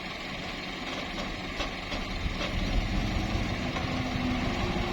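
Nissan dump truck's engine running steadily, getting louder in the second half, with a few faint clicks.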